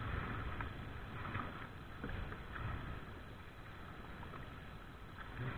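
Oars of a small wooden rowboat dipping and pulling through the water, with faint splashes about every second and a half, over a steady low rush of water and wind.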